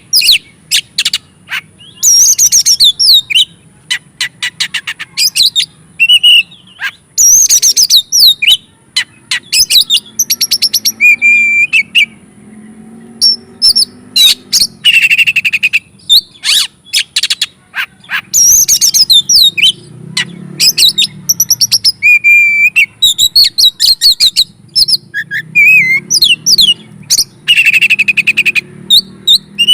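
Oriental magpie-robin (kacer) singing loudly: bursts of varied whistled phrases, fast trills and rattling clicks, with short pauses between them.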